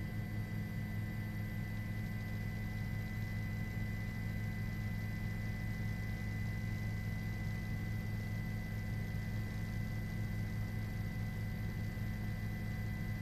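Steady low hum with a thin, high, constant whine above it and a faint hiss, unchanging throughout.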